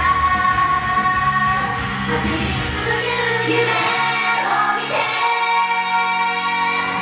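Live Japanese idol pop song: several singers singing together over a loud backing track. About five seconds in, the bass and beat drop away and the voices hold one long note.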